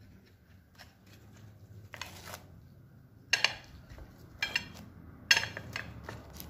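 Kitchen utensils knocking and clinking during food preparation: a short rustle, then three sharp clinks about a second apart.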